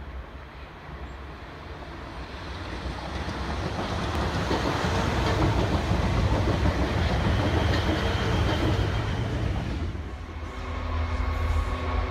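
Class 450 Desiro electric multiple unit running past on the rails, its wheel and rail noise building steadily as it comes close. Near the end the noise drops and gives way to a diesel locomotive's steady engine hum.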